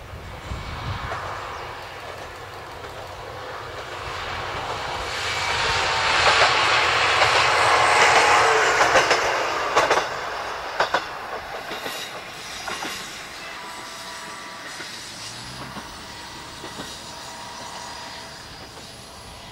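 Single-car diesel railcar of the Yuri Kogen Railway passing by: engine and wheel noise swell to their loudest about six to nine seconds in, then a few sharp clicks of the wheels over rail joints, then a slow fade as it goes away.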